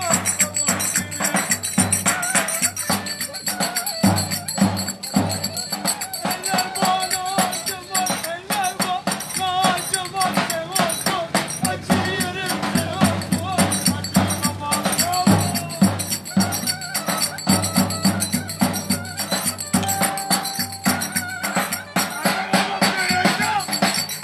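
Live Turkish köçek dance music at a wedding: an ornamented, wavering lead melody over a dense, steady percussion beat.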